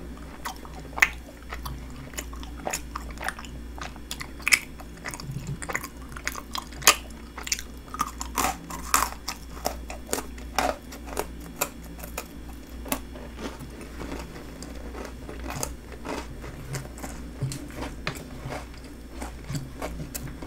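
Chewing and crunching of a bowl of snack bingsu, red-bean shaved ice with milk, cookies and Pepero sticks, with sharp irregular crunches throughout.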